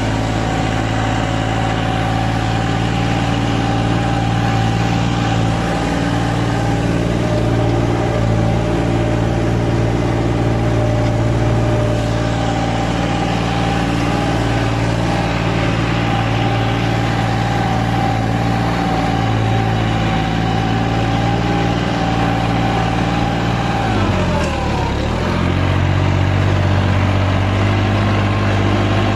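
Tractor diesel engine running at steady revs; about 24 seconds in the revs drop sharply, then pick up again.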